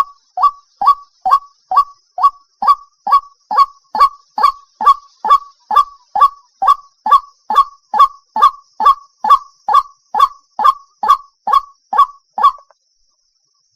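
White-breasted waterhen (ruak-ruak) call played as a lure: a steady run of short, loud honking notes, about two a second, each dropping in pitch. The run stops abruptly near the end.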